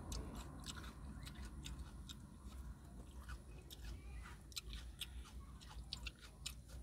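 A person chewing food close to the microphone: irregular small wet clicks and smacks of the mouth, several a second.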